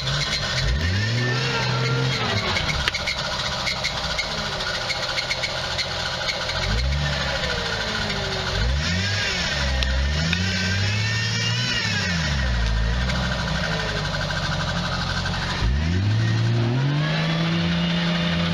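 Off-road vehicle's engine revving up and falling back again and again, several long rises in pitch.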